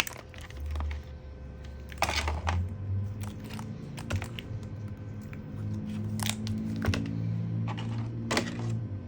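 Irregular light clicks and knocks of small tools and parts being handled on a work surface, over a low steady hum.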